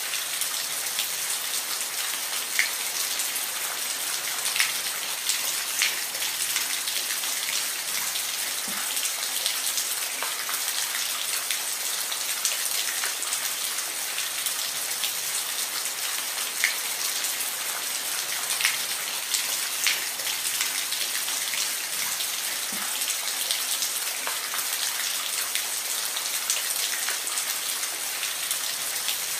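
Steady rain falling, a dense hiss with scattered louder drops tapping.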